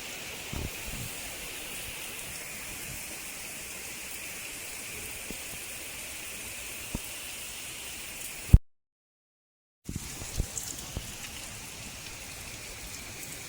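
Steady rain falling, an even hiss with a few faint drips or knocks. About eight and a half seconds in, a sharp click cuts the sound to dead silence for over a second before the rain comes back.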